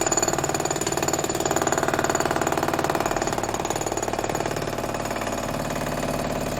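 A rapid, steady machine-like rattle, easing off slightly in level toward the end.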